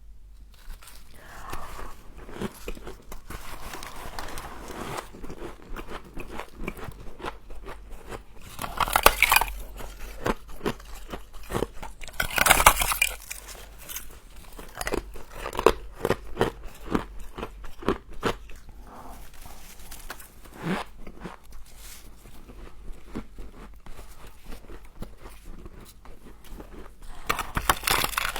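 A person biting and chewing frost close to the microphone: continuous crackly crunching, with louder bites about nine and twelve seconds in and again near the end.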